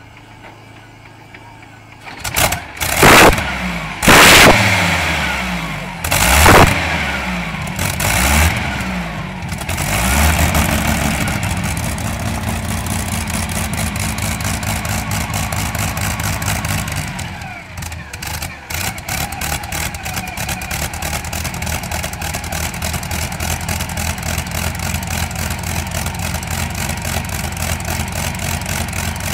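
Tractor-pulling engine cold-started: it catches about two seconds in and is revved hard in four loud blips, then settles into a steady, evenly pulsing idle that briefly falters about two-thirds of the way through before running on.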